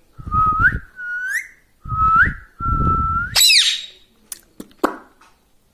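Four whistled notes, each held and then sliding up at the end, followed by a short, sharp falling squawk from an Indian ringneck parrot and a few light clicks.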